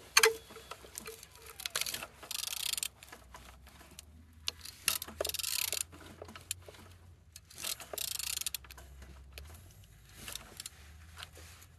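Engine being turned over by hand, its rotating parts giving several spurts of light metallic rattling and clicking a couple of seconds apart, over a steady low hum.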